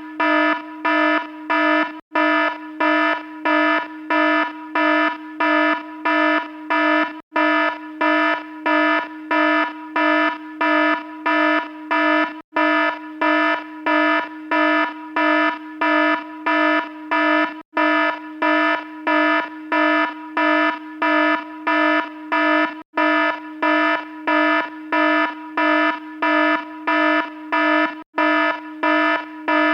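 Electronic alarm sounding a buzzy, steady-pitched tone in rapid pulses, about two a second, with a brief break every five seconds or so.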